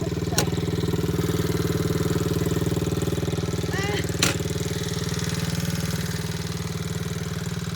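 Dirt bike engine idling steadily, with two sharp clicks, one near the start and one about four seconds in.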